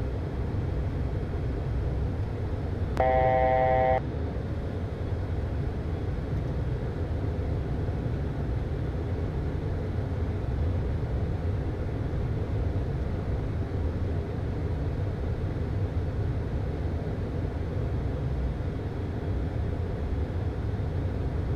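Steady rumble of engine and airflow noise inside the cockpit of a Premier I business jet on final approach to land. About three seconds in, a single electronic tone sounds for about a second.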